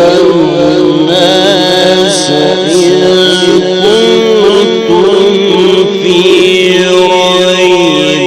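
Male Quran reciter chanting in the melodic tajweed style, holding long vowels that wind up and down in ornamented pitch turns with no break.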